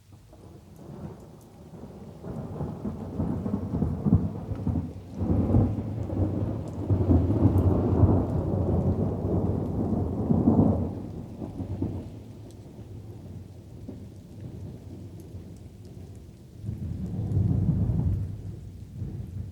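Thunder rolling over light rain: a long low rumble builds about a second in and dies away after about eleven seconds, and a second, shorter rumble comes near the end.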